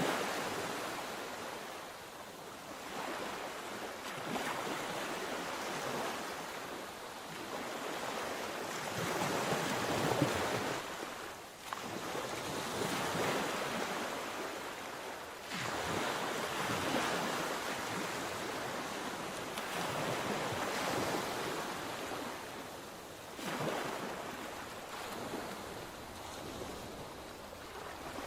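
Mediterranean sea waves breaking and washing onto the shore in repeated surges a few seconds apart, with some wind on the microphone.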